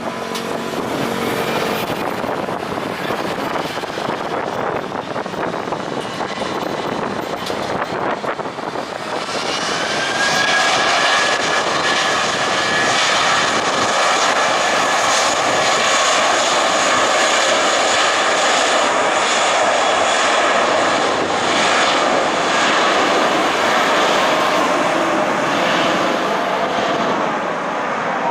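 Jet airliner's engines, first as a noisy rush over wind on the microphone, then growing louder about nine seconds in with a steady, high whine that holds to the end.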